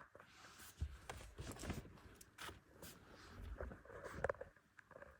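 Budgies moving about quietly: faint scattered rustles and small taps, with no calls.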